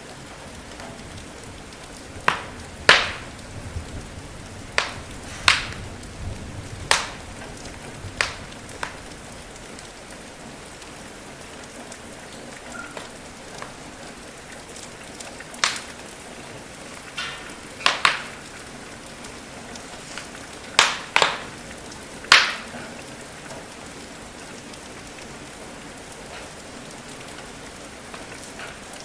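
Steady rain falling, with a wood fire crackling over it: a dozen or so sharp pops come at irregular intervals, clustered in the first ten seconds and again between about seventeen and twenty-three seconds in.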